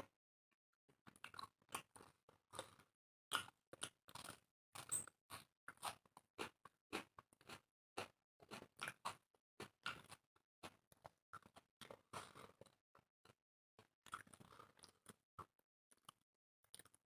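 Two people chewing roti and chicken curry close to the microphone: an irregular run of short mouth clicks and smacks, several a second, starting about a second in and thinning out near the end.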